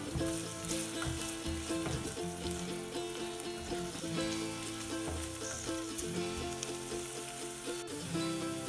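Sliced onion sizzling as it sautés in hot oil in a stainless steel pot, stirred with a spatula, over plucked-string background music. A single sharp click comes near the end.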